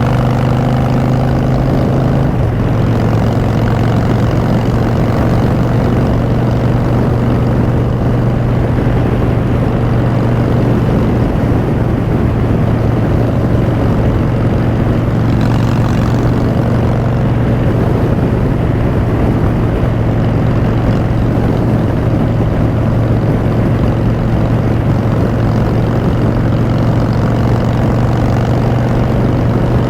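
2016 Harley-Davidson Street Bob's Twin Cam V-twin running steadily under way through Vance & Hines Short Shots exhaust. The engine note drops a little about two seconds in, then holds level.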